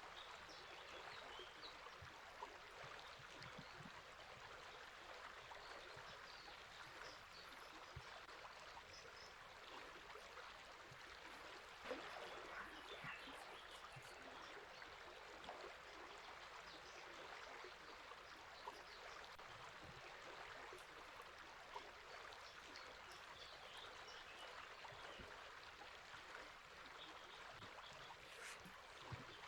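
River water flowing steadily and softly, with faint, scattered bird chirps above it.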